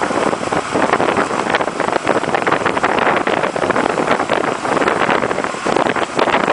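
Loud, steady rush of wind over the microphone aboard a sailing ice boat, mixed with the rough hiss of its runners on the ice.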